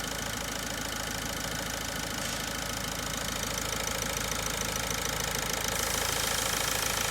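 Vauxhall/Opel 1.6 diesel engine idling steadily, running with its inlet manifold freshly cleaned of carbon build-up.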